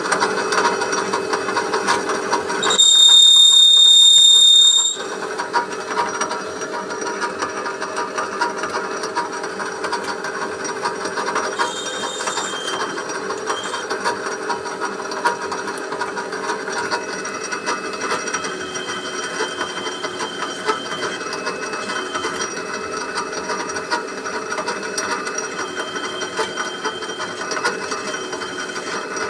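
Engine lathe taking an internal boring cut with a boring bar, a steady machining noise. About three seconds in, a loud high-pitched squeal lasts about two seconds: chatter, the boring bar vibrating in the cut. Fainter whistling tones come and go later in the cut.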